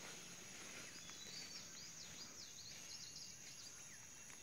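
Faint forest ambience with a run of quick, high chirping bird calls in the first three seconds or so, over a steady high thin tone.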